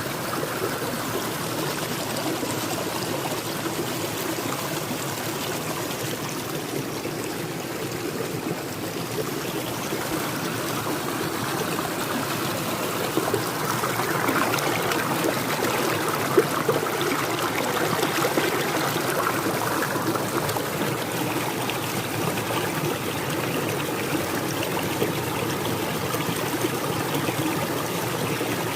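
Small stream running after heavy rain, water splashing and trickling steadily over a little rock waterfall, somewhat fuller for a few seconds in the middle.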